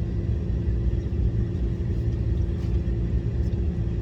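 Car engine running, heard from inside the cabin: a steady low rumble with a constant hum.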